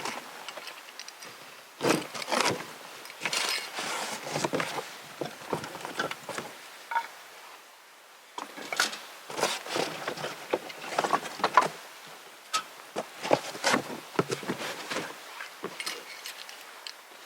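Irregular clicks, knocks and rustles of camping gear and wood being handled, with a short pause about halfway through.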